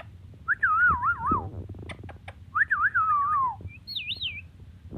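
Ringneck parrot whistling: two wavering whistles about a second long, each falling in pitch, then a short, higher warbling whistle near the end.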